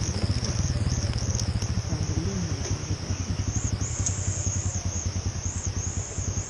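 Motorcycle engine running at low, steady revs with a regular low pulsing, over a high wavering chirring in the background.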